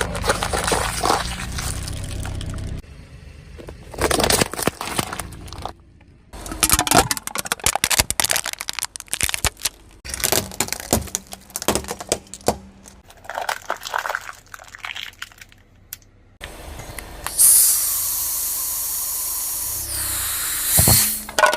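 Objects cracking and crunching as a car's tyres crush them: several separate bursts of sharp cracks and crackles, then a loud steady hiss of about three seconds near the end.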